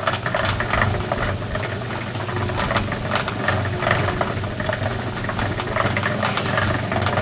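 Portable concrete mixer running, its motor giving a steady hum while the concrete mix and gravel tumble and rattle irregularly in the turning drum.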